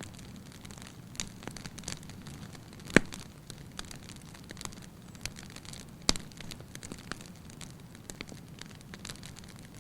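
Wood fire burning in a fireplace: a steady low hiss with scattered crackles and two sharp pops, the louder one about three seconds in and another about six seconds in.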